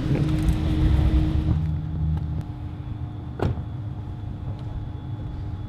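Car engine running close by, a loud low rumble that drops away after about two seconds, with one sharp click about three and a half seconds in.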